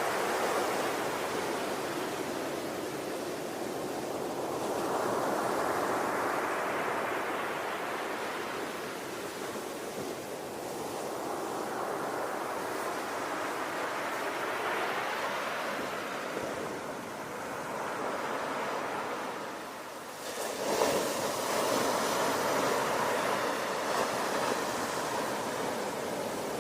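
Ocean surf: waves wash in and draw back, the noise swelling and fading every several seconds. A louder wave breaks suddenly about twenty seconds in.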